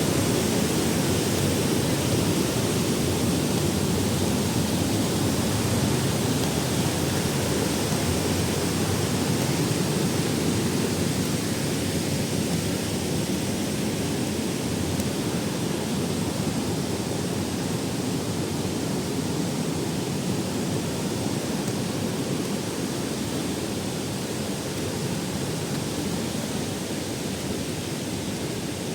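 A waterfall's steady rush of falling water, deep and even, easing slightly in level over the half-minute.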